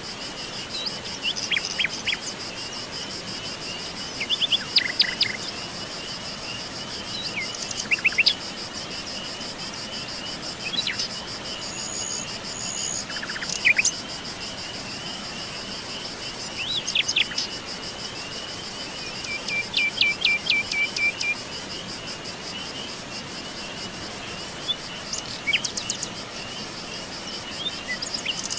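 Wild birds chirping and calling in short scattered phrases over a steady high-pitched insect trill.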